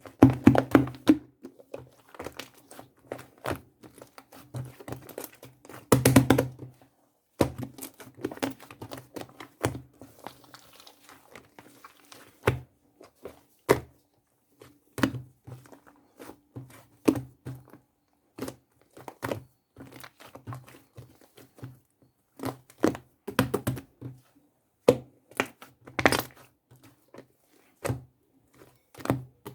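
Irregular taps, knocks and clicks of small objects being handled, with some crinkling, in a small room.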